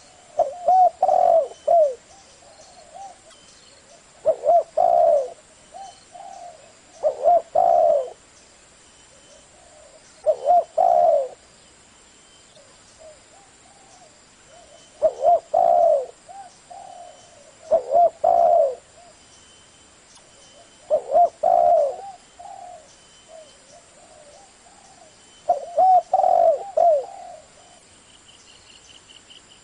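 Spotted dove (cu gáy) cooing in the deep 'thổ' voice: short phrases of a few coos, repeated every few seconds, about eight times. It is a call used as a lure to draw wild doves in quickly.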